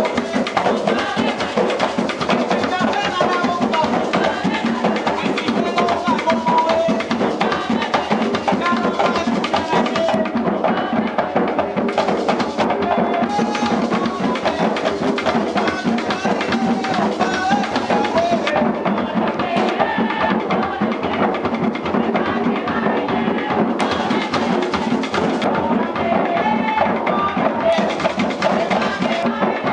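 Live Puerto Rican bomba drumming: several barril drums played together in a steady, driving rhythm.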